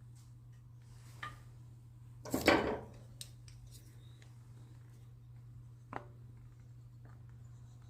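Metal parts or hand tools clinking and clattering, with one louder rattling clatter about two and a half seconds in and a few single clicks, over a steady low hum.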